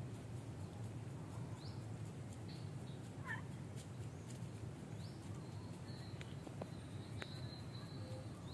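Short bird calls now and then over a steady low background hum, with a few faint clicks in the second half.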